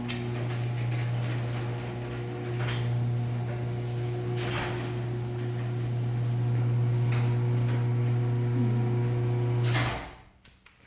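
Garage door opener motor running with a steady hum as it moves the door, with a few knocks along the way, then stopping abruptly near the end.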